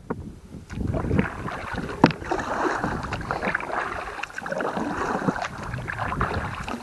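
Canoe paddling: a paddle pulling through the water with splashing and dripping, and a sharp knock about two seconds in, like the paddle striking the canoe's hull.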